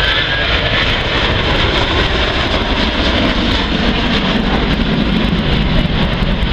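Aircraft engine noise from a flying display: a loud, steady rush.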